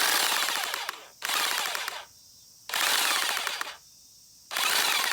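Ryobi HT-3630 electric hedge trimmer run in four short bursts of about a second each, its reciprocating blades and gearbox giving a harsh rapid rattle that dies away each time it is switched off. The rattle is an abnormal noise that the owner suspects comes from a damaged gear.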